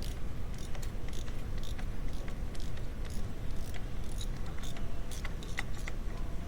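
Hand tools working on the engine: a socket and ratchet giving scattered, irregular metal clicks and clinks over a steady low hum.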